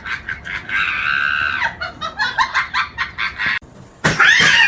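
An animal's rapid clucking calls: a quick run of short clucks with one longer drawn-out note about a second in, stopping abruptly. A loud, wavering yowl starts near the end.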